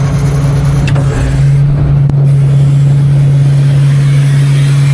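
Engine idling steadily close by with a constant low hum, running just after a leaking oil fitting was resealed and the machine put back together, while it is checked for leaks.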